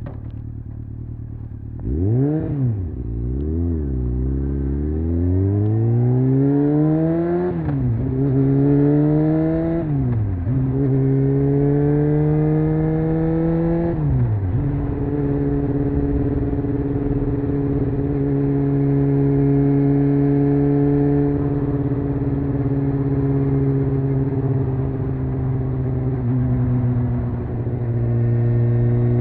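Honda CBR600F's inline-four engine: running steadily, then two short revs before it pulls hard through three upshifts, the pitch climbing and dropping at each shift, and settling into a steady cruise.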